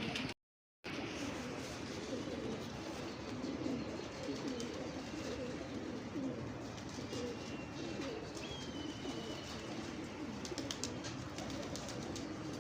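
Many pigeons cooing together in a continuous, overlapping murmur. The sound cuts out completely for a moment just after the start, and a few faint clicks come near the end.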